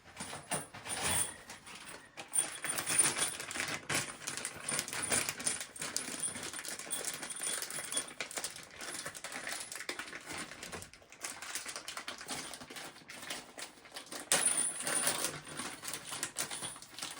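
Toilet tank hardware (bolts, washers and a rubber gasket) being handled and fitted by hand, making a dense run of light clicks, clinks and rustling, a little louder about three seconds in and again near the end.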